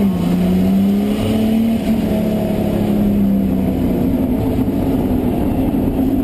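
BMW E30's engine running under steady throttle from inside the cabin, its pitch dipping at the start and then climbing gently before holding steady.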